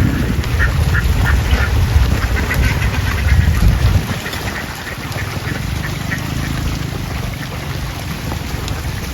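A flock of ducks quacking, many short calls overlapping, over a heavy low rumble that drops off about four seconds in.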